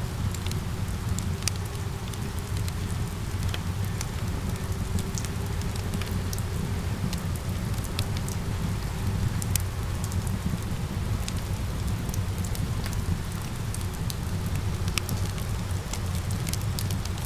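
Steady rain layered with a crackling wood fire: an even hiss and low rumble, with many small sharp crackles and pops scattered throughout.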